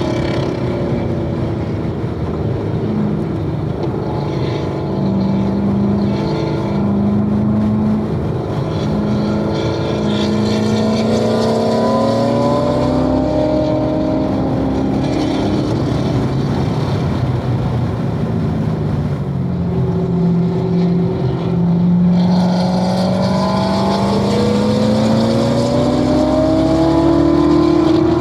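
2016 Corvette Z06's supercharged 6.2-litre V8 under load on a track lap. The engine note climbs steadily under acceleration, falls away twice, and climbs again.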